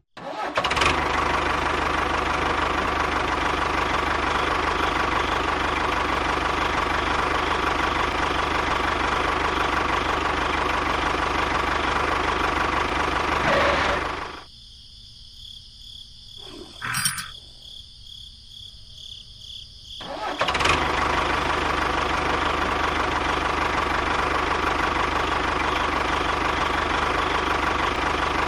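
A tractor engine running steadily. About halfway through it drops away to a much quieter stretch of some six seconds, with a single sharp click in the middle, then runs again at the same steady level.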